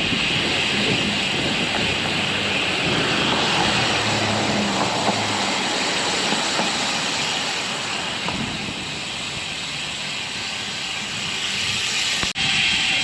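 Steady rushing road noise from a moving road bicycle: wind over the microphone and tyres hissing on damp pavement. The sound cuts out for an instant near the end.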